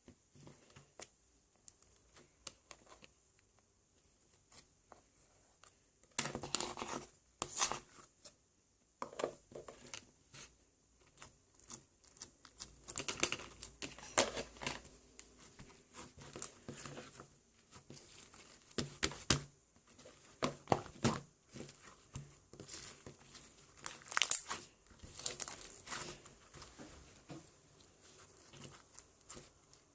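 Irregular crinkling and rustling of something being handled, in bursts of crackles with quiet gaps, starting sparse and getting busier about six seconds in.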